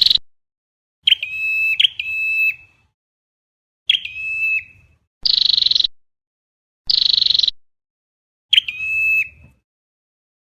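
Flowerpecker ('chim sâu đầu đỏ') calls played as a bird-trapping lure: short whistled notes alternate with harsh buzzy calls, one call about every second and a half. Each call starts and stops abruptly, as on an edited playback loop.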